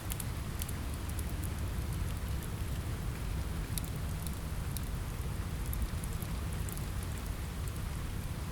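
Steady rain with a deep low rumble, mixed with the scattered sharp pops of a crackling fireplace fire.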